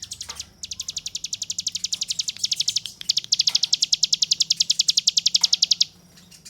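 Hill prinia (ciblek gunung) singing long, rapid high trills of evenly repeated notes, the 'ngebren' burst song: a short trill at the start, then one lasting over two seconds, then another of nearly three seconds that stops shortly before the end.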